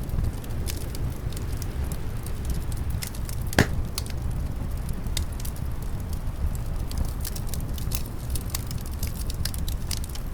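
Wood fire crackling with frequent small pops and one sharp, louder pop about a third of the way in, over a steady low rumble of winter wind.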